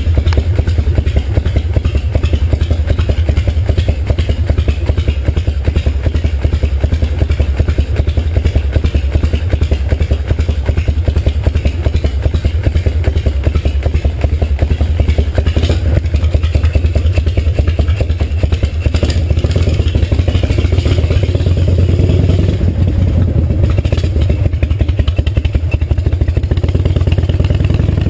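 Harley-Davidson V-twin engine running steadily, its exhaust a rapid even pulsing with a strong deep low end; near the end the pitch climbs a little as the engine picks up.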